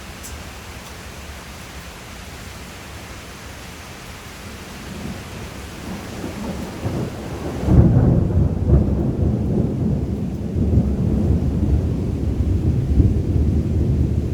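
Steady rain hiss, then thunder: a low rumble builds from about five seconds in and breaks into a loud, long rumble about eight seconds in that keeps rolling on.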